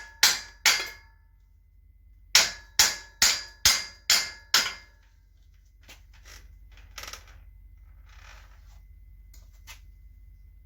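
Hammer blows on a seized metal bicycle part to knock it loose, each strike ringing metallically. There are two blows, a pause of about a second and a half, then six more in quick succession, about two a second. Fainter clinks of parts being handled follow.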